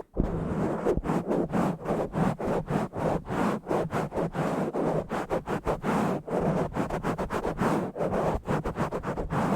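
Fast, rough scratching and rubbing directly on a bare, uncovered microphone, about four or five strokes a second, after a brief drop-out at the very start.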